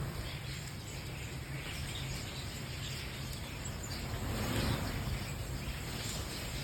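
A large flock of birds calling all at once: a dense, overlapping chatter of many small chirps over a steady low background hum.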